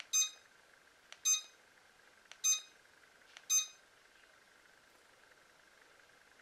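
Electric fireplace's controller beeping four times, about once a second, a short high beep at each press of the remote's flame-height button. A faint click comes just before most beeps.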